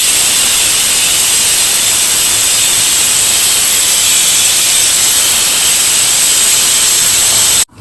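A loud, steady hiss, strongest in the high range, that starts and stops abruptly.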